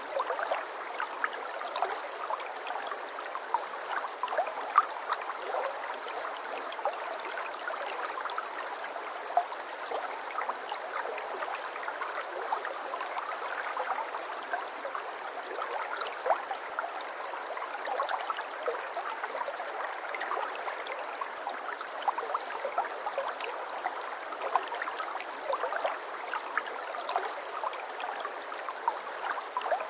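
A small babbling brook, with water trickling and gurgling over stones in a steady, continuous burble full of small splashes.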